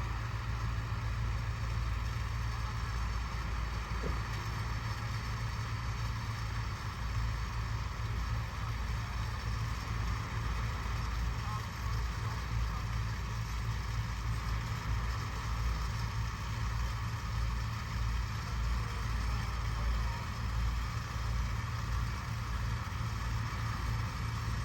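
Scania S650 V8 truck engine running steadily at low revs, a deep, even hum.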